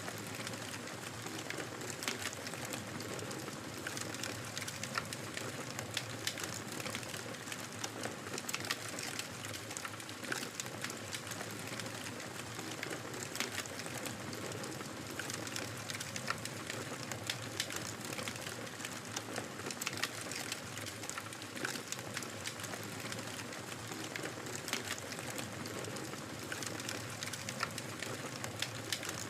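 Fire crackling in a fireplace: a steady hiss with many small, irregular pops and snaps.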